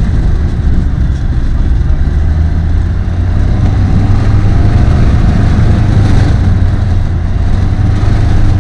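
Apollo Fox ultralight aircraft's engine and propeller running steadily in flight, a loud, even drone with a strong low hum.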